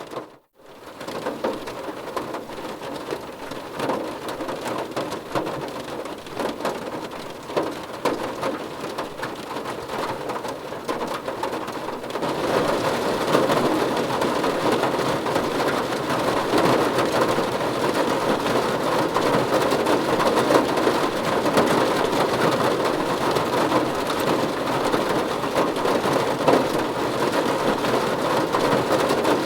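Rain falling on a car's roof and windows, heard from inside the car: a steady dense patter that becomes heavier and louder about twelve seconds in. There is a brief break in the sound just after the start.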